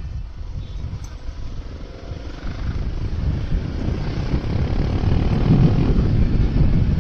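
Wind buffeting the microphone on a moving motorcycle, a low rumble that grows steadily louder as speed builds.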